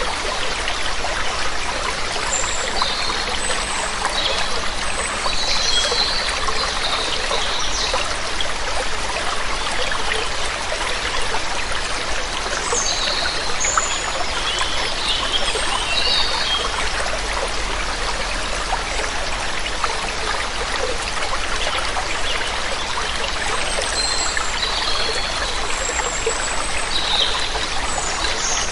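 Steady running water from a waterfall, with small birds chirping in short high calls now and then, in clusters a few seconds in, around the middle, and near the end.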